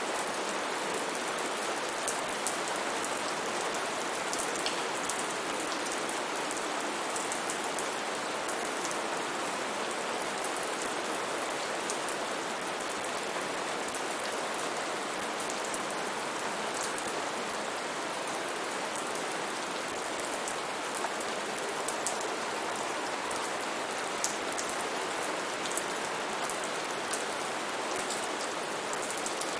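Steady, even rainfall, with scattered sharper drop hits pattering through it.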